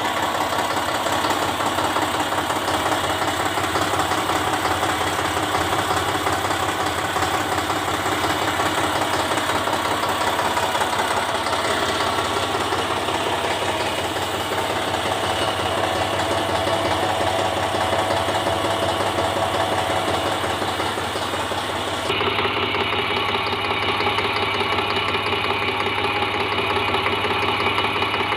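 Vehicle engine running steadily at idle during a test after a gearbox oil change. About 22 seconds in, the sound changes abruptly and the high hiss drops away.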